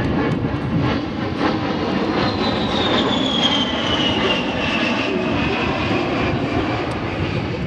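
A-10 Thunderbolt II's twin turbofan engines in a flyby: a steady jet roar with a high whine that falls in pitch from about two to six seconds in as the jet passes.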